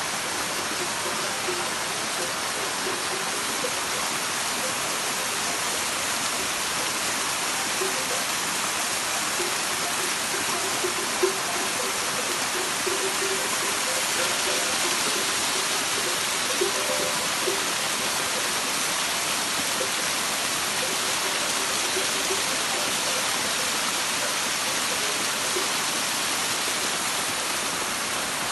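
Waterfall: a steady, even rush of falling water, with a single brief knock about eleven seconds in.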